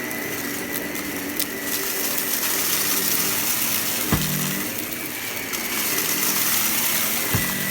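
Vacuum cleaner running steadily, its motor a constant whine over a hiss of suction, picking up crunchy debris scattered on the floor. Two sharp knocks, about four seconds in and near the end.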